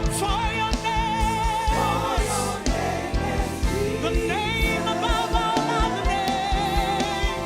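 Gospel worship music: singers holding long, wavering notes over a band with a steady kick-drum beat.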